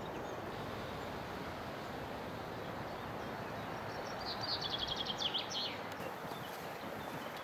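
Steady outdoor background noise, with a songbird singing one fast trilled phrase of high repeated notes about four seconds in, lasting about a second and a half and ending in a few falling notes.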